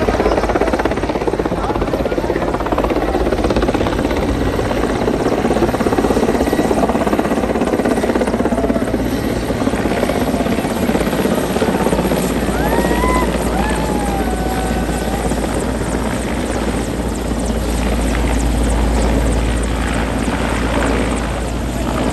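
Helicopter rotors and engines running loudly and steadily, with a deep low rumble underneath. About thirteen seconds in, a brief high call rises and falls over it.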